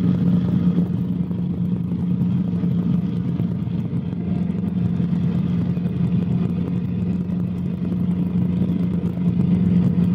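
Cabri G2 helicopter running in flight, heard from inside the cabin: a steady, loud low drone from the engine and rotors that dips slightly midway and swells again near the end. The sound is picked up by a shirt-clip microphone.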